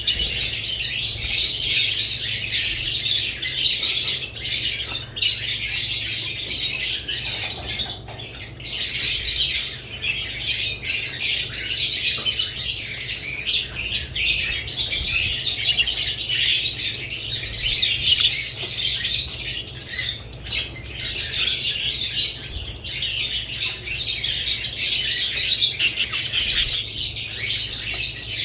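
A group of budgerigars and lovebirds chirping and chattering continuously, with many overlapping high-pitched calls and occasional squawks.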